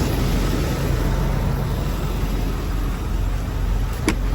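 Steady low rumble of motor vehicle engines, with a single sharp click about four seconds in.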